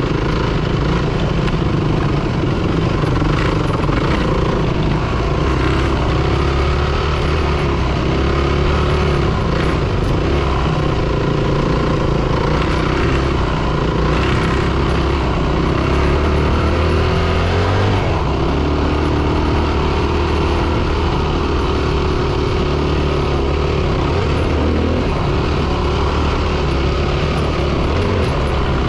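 Single-cylinder four-stroke dirt bike engine running continuously while riding, its pitch rising and falling with the throttle, mixed with rumble and rushing noise.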